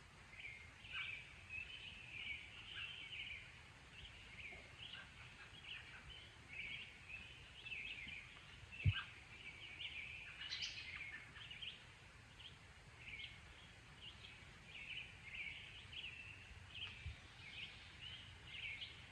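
Faint birdsong: many short, high chirps one after another, with a single thump about nine seconds in.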